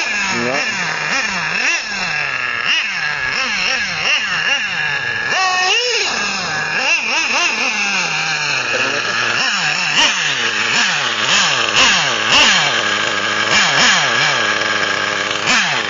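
OS 30 nitro engine of an XRAY XT8 1/8-scale RC car revving up and down over and over as it is driven, its pitch rising and falling many times with quick throttle blips.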